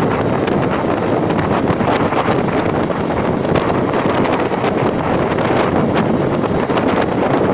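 Steady wind buffeting the microphone of a moving vehicle, with the vehicle's running and road noise underneath.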